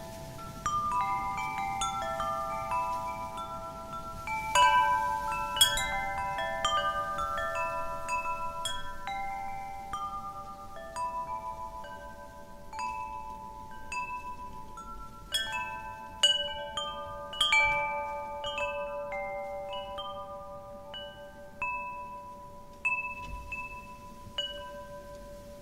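Metal wind chimes being struck at irregular moments, several tubes at a time, each tone ringing on and fading, with strikes bunched a few seconds apart. A faint wind rushes underneath.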